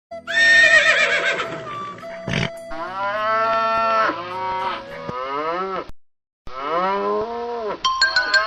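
Cattle mooing: two long, drawn-out calls, each rising and then falling in pitch, with a brief silent gap between them, after a higher, wavering call near the start.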